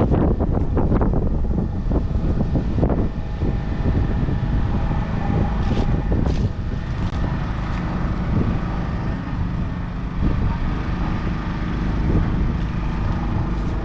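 JCB Fastrac 4220 tractor's 6.6-litre six-cylinder diesel engine running steadily, with wind buffeting the microphone.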